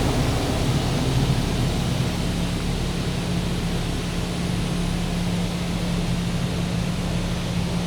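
High-pressure water jets of a Belanger Vector touchless car wash spraying against the car's passenger side, heard from inside the car as a steady rushing hiss. A steady low hum joins about two seconds in.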